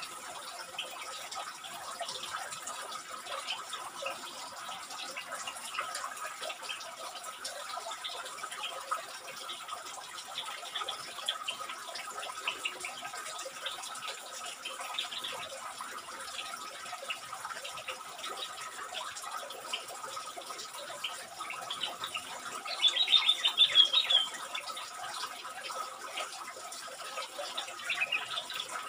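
Bulbuls in a small aviary: scattered soft chirps and clicks, with a burst of quick, high-pitched bird chattering about 23 seconds in and a shorter call near the end, over a faint steady high tone.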